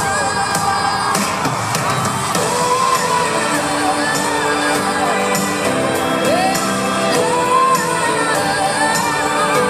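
Live pop concert music with singing, and audience shouts and whoops, recorded from within the crowd in a large hall.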